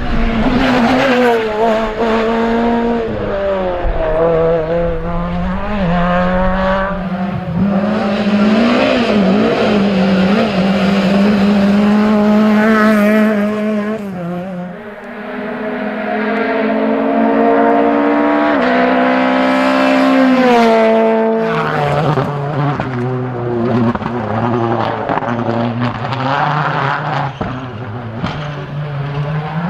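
Rally car engine at high revs, its pitch climbing and dropping again and again with gear changes and lifts off the throttle. About halfway through it briefly goes quieter, then climbs hard again for several seconds before settling to a lower note.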